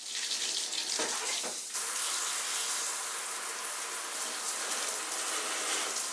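Water running steadily from a tap, an even rushing hiss.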